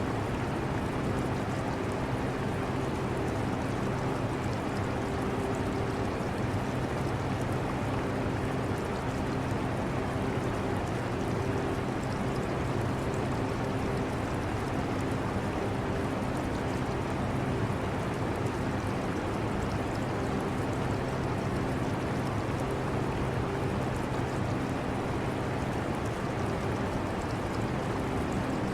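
Steady hum of a portable air conditioner's fan, with a few low humming tones that fade in and out, mixed with the trickle and flow of aquarium water.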